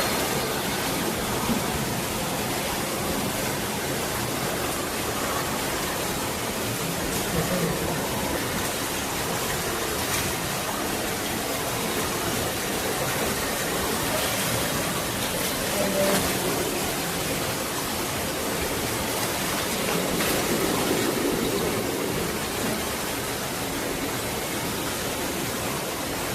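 Steady rushing of flowing water from a jungle stream, an even noise without breaks.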